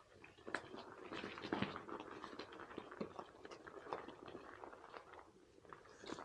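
Bicycle tyres rolling through wet, muddy trail ground, giving an irregular crunching and crackling of small clicks, with a few louder crunches about one and a half seconds in.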